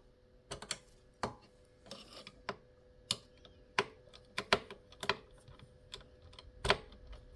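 Irregular sharp clicks and taps of small hard computer parts being handled and screwed down while a CPU fan is fitted into a desktop PC.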